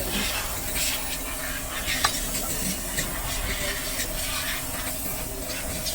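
A steady hissing spray with scattered small clicks over a faint steady hum.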